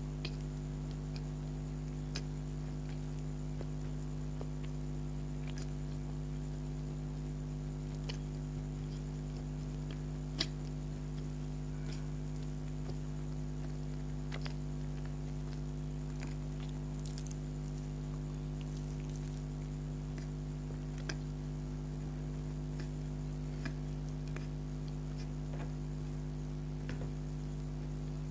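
Mouth sounds of someone eating a soft donut close to the microphone: scattered small clicks of chewing and lip smacks, one sharper about ten seconds in, over a steady low electrical hum.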